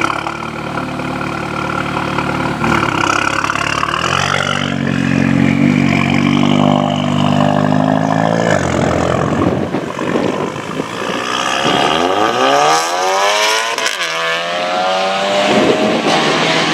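Volkswagen Golf hot hatch engine revving: held at steady revs, rising about four seconds in and held high, then falling back. Near the end it sweeps up hard in pitch as the car accelerates, drops sharply at a shift, and settles.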